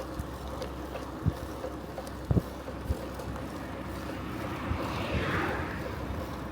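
Wind rumbling on the microphone of a moving bicycle, with a few sharp low thumps from bumps in the ride. About five seconds in, a rushing sound swells and fades.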